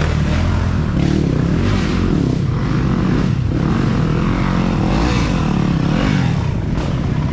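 Off-road racing dirt bike engines revving hard, the pitch rising and falling continuously as they ride the course.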